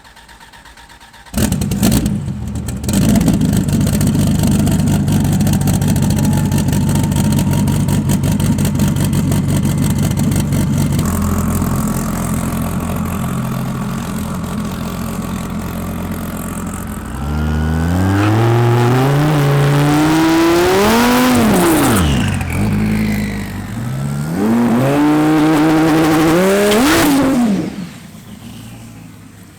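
Twin-turbo Dodge Viper V10 engine coming in abruptly about a second in and running steadily. It then accelerates hard twice, its pitch climbing in steps through gear changes, with a falling sweep between the two runs. It cuts off sharply near the end.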